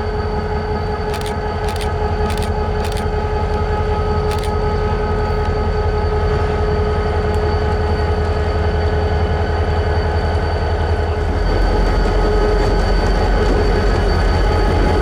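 Diesel freight train rolling into a yard, its locomotive shoving the cars: a steady low rumble with a steady whine over it and a few sharp clicks in the first several seconds. It gets slightly louder about eleven seconds in.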